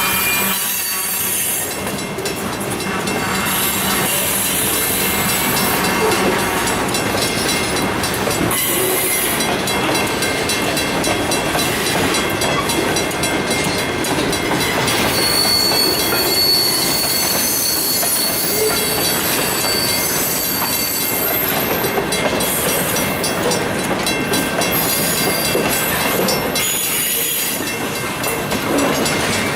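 Freight train cars rolling past, wheels clacking over the rail joints in a steady loud rumble. A brief high wheel squeal comes about halfway through.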